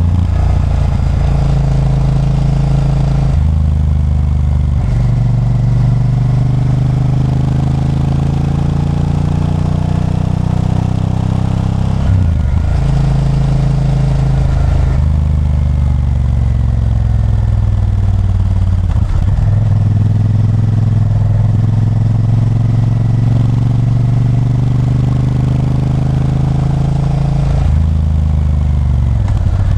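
Honda Varadero 1000's V-twin engine pulling the motorcycle along, its revs rising and falling with the throttle and stepping abruptly at gear changes about five times.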